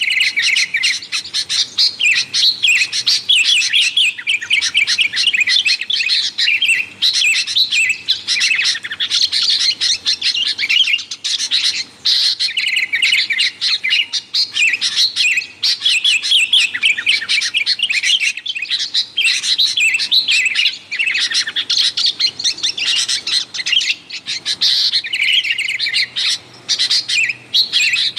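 Sooty-headed bulbuls chirping busily without a break, a dense stream of quick, bright notes: the noisy bulbul calling used as a lure for wild bulbuls.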